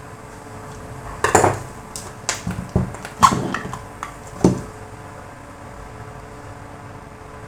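Metal parts of an opened Bosch angle grinder clinking and knocking as they are handled, about seven sharp knocks in the middle few seconds.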